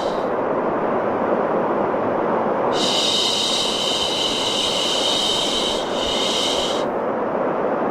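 A steady, deep rushing noise like brown noise, with a long breathy "shhh" shush laid over it. The shush fades out right at the start and comes back about three seconds in, with a brief break near six seconds, then stops about seven seconds in.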